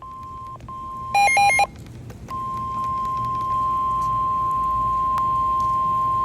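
NOAA Weather Radio warning alarm: a steady, loud single tone near 1 kHz, cut by a short gap, then a brief chirping multi-tone beep about a second in, after which the steady tone resumes and holds. It signals that a severe thunderstorm warning is being issued.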